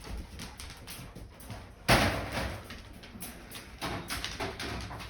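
A single sharp bang about two seconds in, with a short clattering tail, as dog bowls are set down on a hard surface; a few lighter knocks follow.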